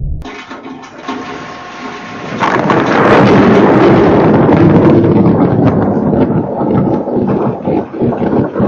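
Thunder: after a quieter stretch, a loud rumble sets in about two and a half seconds in and rolls on with crackling.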